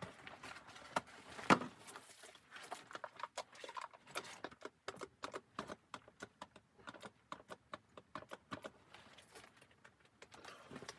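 A busy run of irregular small clicks and knocks, as of objects being handled, with one louder knock about a second and a half in.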